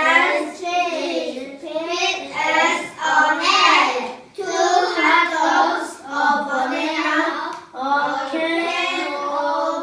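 A child singing, with sustained high-pitched sung phrases broken by short breaths.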